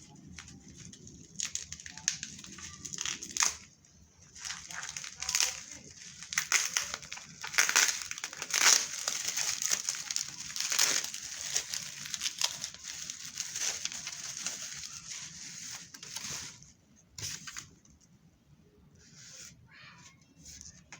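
Screen-protector packaging crinkling and rustling as it is handled and torn open, in a run of sharp, crackly bursts that stops near the end, with one last short rustle.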